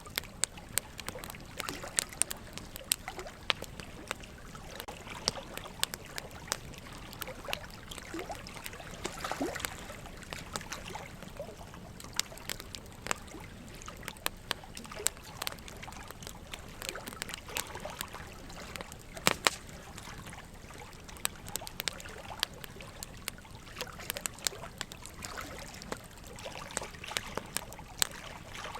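Burning wood logs crackling, with frequent irregular sharp pops, over a steady trickle of running water.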